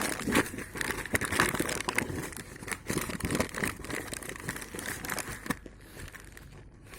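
Courier package being opened by hand: its packaging crinkles and tears in a dense run of crackles, easing off about five and a half seconds in.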